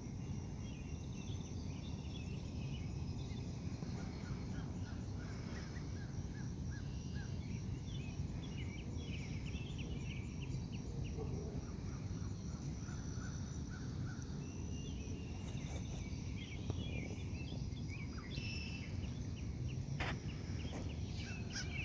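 Ducks and a goose giving short, scattered calls over a steady high insect trill and a low background rumble.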